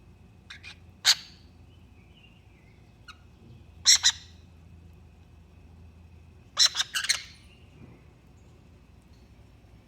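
Pet birds giving short, sharp calls: a faint pair just under a second in, a single call at about a second, a double call around four seconds, and a quick run of several calls near seven seconds.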